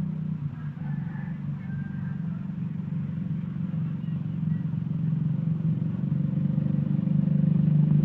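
Motorcycle engine running steadily while riding along the road, its hum slowly getting louder towards the end.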